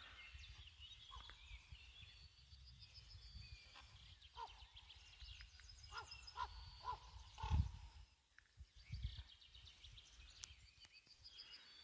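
Songbirds singing faintly in the woods: a high trill of quick repeated notes near the start and again near the end, with scattered short chirps in between.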